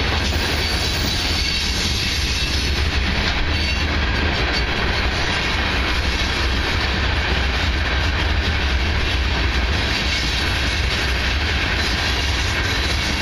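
BNSF freight train of hopper cars rolling past, a steady, unbroken sound of steel wheels running on the rails with a strong low rumble.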